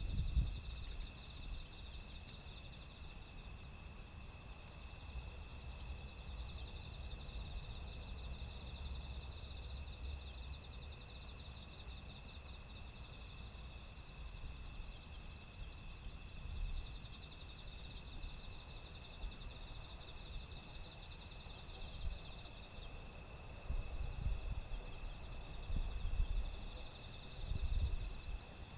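Insects, crickets among them, chirping steadily in several high pulsing trills, over a low rumble that swells a few times near the end.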